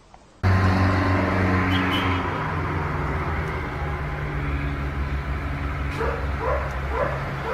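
A vehicle engine running steadily, with a dog giving three short rising yips near the end.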